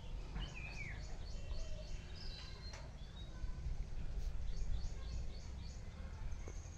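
Several birds calling and singing, including two runs of short high chirps at about four a second and a falling whistled note near the start, over a steady low rumble.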